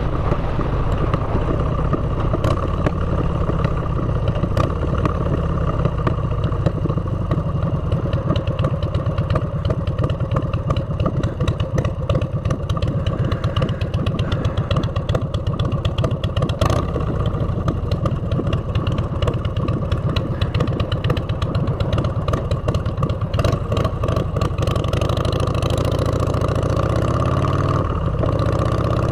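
Motorcycle engine running through aftermarket exhaust pipes while riding, a loud steady pulsing exhaust note. Near the end it drops back briefly, then rises in pitch as the bike pulls away again.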